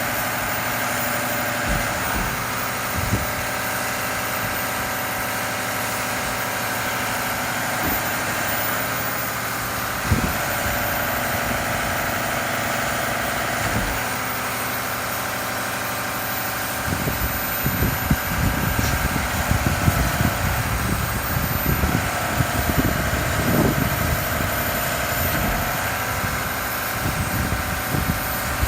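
Garbage truck's diesel engine running steadily at idle. From about halfway through, irregular low thumping joins it.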